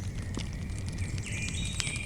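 Campfire crackling, with a steady low rumble of burning and scattered sharp pops. About a second in, high thin whistling calls start up at several pitches over the fire.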